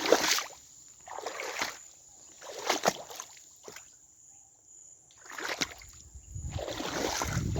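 Feet wading and splashing through shallow standing water, a few separate splashy steps with a quiet pause in the middle.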